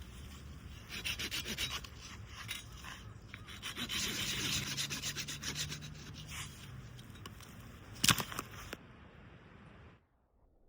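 Rapid, repeated scraping strokes on wood, as when wood is worked for a campfire, then a single sharp knock about eight seconds in. After that the sound falls away to a faint hiss.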